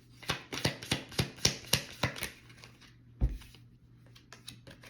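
Tarot cards being handled: a quick run of about eight sharp card slaps over two seconds, a dull thump a little after three seconds, then a few lighter clicks.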